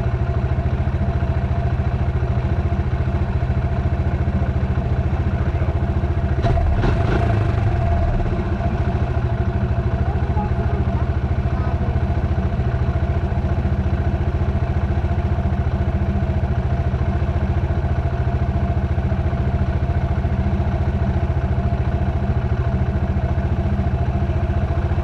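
Dirt bike engine running at a steady, unchanging speed, with a brief louder rush about six to seven seconds in.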